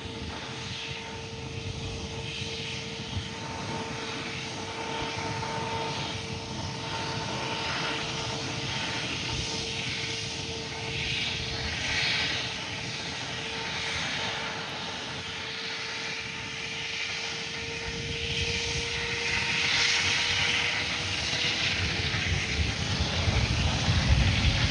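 Airbus A350-1000 jet engines (Rolls-Royce Trent XWB) running with a steady whine over a rushing hiss, growing steadily louder in the last third with a rising tone near the end as the engines spool up for takeoff.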